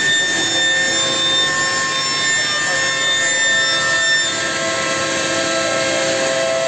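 Homag five-axis CNC router machining wood: a steady spindle whine, made of several held tones over the noise of the cut. About four seconds in, the highest tone drops out and the others shift.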